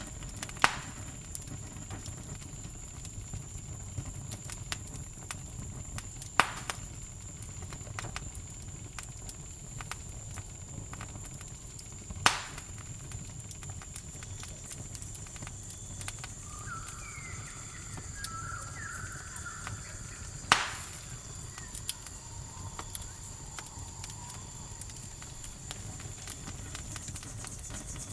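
Campfire crackling, with four loud sharp pops several seconds apart among many small ticks, over a steady high-pitched cricket trill. A few short chirping calls come in around the middle.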